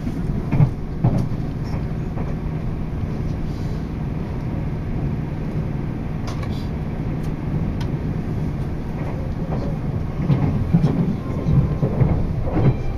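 Meitetsu μ-SKY electric train running, heard from inside the carriage: a steady low running hum, with wheels knocking over rail joints about half a second in and again in a run near the end.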